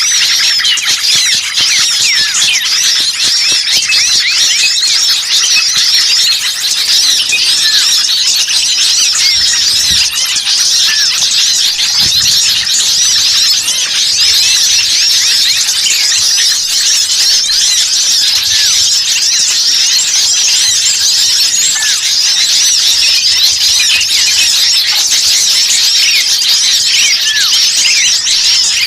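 Dense, noisy chorus of many small songbirds calling at once, rapid high chirps and twitters overlapping without a break: the rowdy small-bird calling used as a lure to draw in wild birds.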